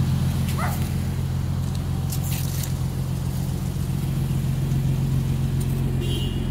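Infiniti V6 engines idling with a steady, low exhaust drone.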